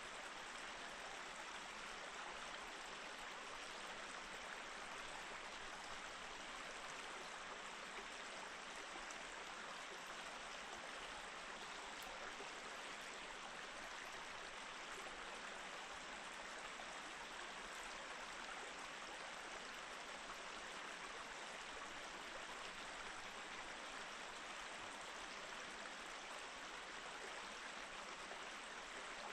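Mountain stream flowing steadily over rocks: an even, continuous water rush, fairly faint.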